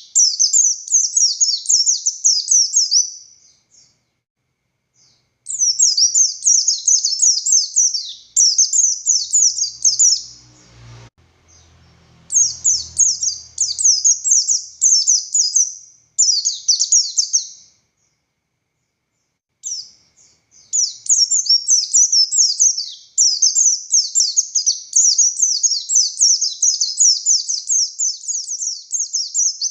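A Buxtoni white-eye (pleci) singing loud, fast, high-pitched twittering song in long runs of several seconds, broken by a few short pauses.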